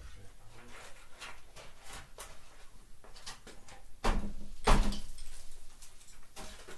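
Scattered knocks and clatter of hand tools at work on the car trailer's bolts and metalwork, with a louder, longer clatter about four seconds in.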